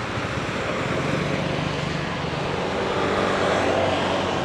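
Street traffic: steady road noise with vehicle engines passing close by, one nearer engine louder about three seconds in.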